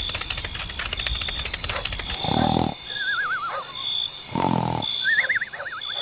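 Farm-animal sound effects: two short animal calls about two seconds apart, each followed by a wavering, falling whistle, over a fast high chirring in the first half.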